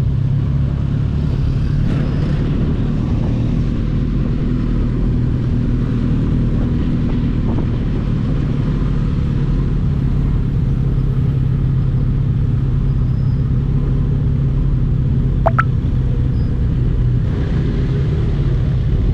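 Superbike inline-four engine running steadily at cruising speed with a constant low rumble, the pitch holding level with no revving. A brief sharp chirp stands out about fifteen seconds in.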